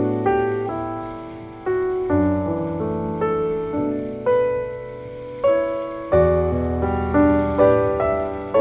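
Background piano music: slow, gentle notes and chords struck and left to fade, a new one about every second, with deeper bass notes joining about two and six seconds in.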